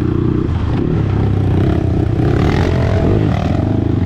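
Dirt bike engine running under way, its pitch rising and falling as the revs change, busiest between about two and three and a half seconds in.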